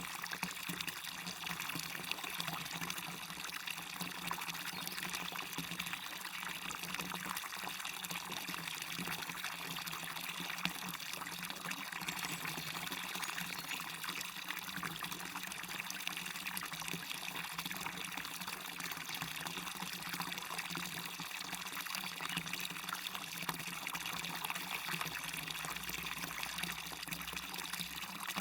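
Small waterfall splashing and pouring steadily into a stream, a constant even rush of water.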